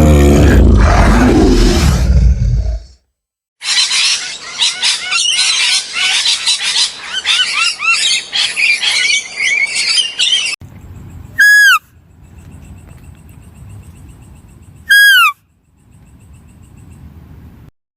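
The tail of a deep animal roar, then after a short silence a stretch of busy high chirping and twittering from birds, then two loud, short, falling shrill calls about three and a half seconds apart over a faint background.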